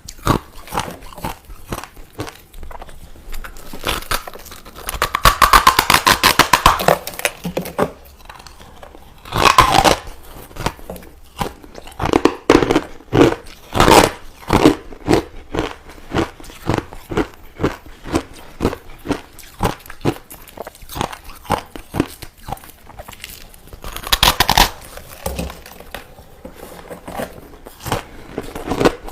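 A person chewing crushed ice close to the microphone: a steady run of quick, sharp crunches, with louder spells of biting about five seconds in, near ten seconds, and again near the end.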